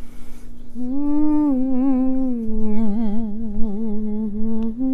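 A woman humming a slow, wordless melody, starting about a second in, with long held notes and a wavering vibrato.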